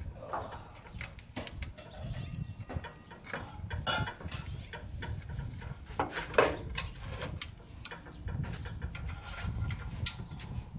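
Irregular metallic clinks and knocks of wrenches, bolts and small parts being handled during disassembly, over a low rumble.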